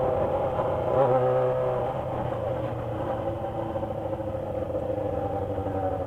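Yamaha XJ6 motorcycle engine running steadily under way. The engine note eases off about two seconds in, then holds at lower revs.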